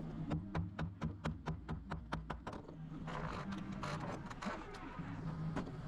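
A rapid run of about a dozen sharp, evenly spaced knocks, about five a second, stopping after two and a half seconds, followed by a rougher scraping noise. A steady low engine hum runs underneath.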